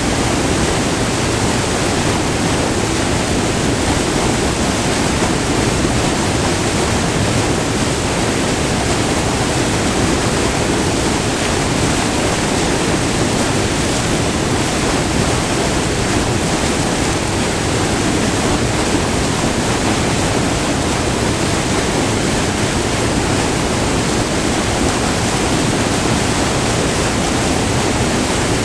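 White water rushing over a short multi-tiered waterfall, a steady, dense roar that does not change.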